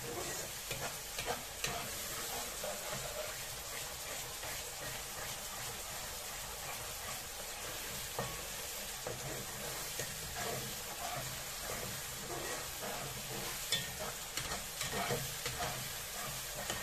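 Ground spice paste of shallots, garlic, chillies, turmeric and tomato sizzling steadily in hot oil in a wok, being fried until fragrant. A metal spatula stirs it and now and then clicks and scrapes against the pan, more often near the end.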